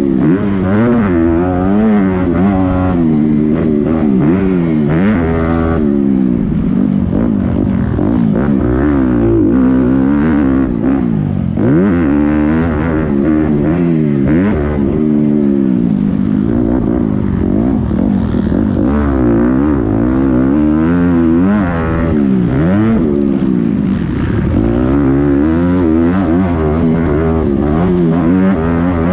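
Several motocross dirt bikes racing at once. Their engines rise and fall in pitch over and over as the riders open and close the throttle and shift through the gears.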